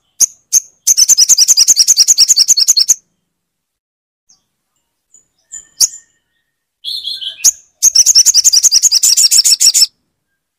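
Sogon bird song from a tutor recording: a few sharp, high chip notes and two rapid, high trills of about two seconds each, at roughly ten notes a second, with a short, lower buzzy note just before the second trill.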